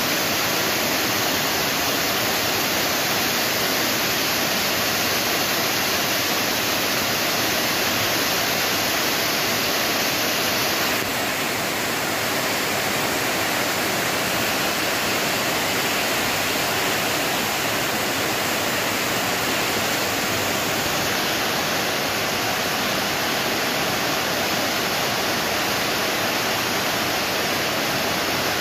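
Steady rain falling, a continuous even hiss with no separate drops or splashes standing out.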